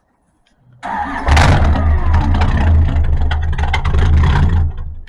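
A car engine close by, starting up about a second in and running loudly and steadily before cutting off suddenly near the end.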